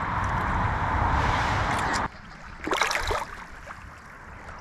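Rushing river water, a steady hiss that cuts off suddenly about two seconds in. A short noisy burst follows, then quieter flowing water.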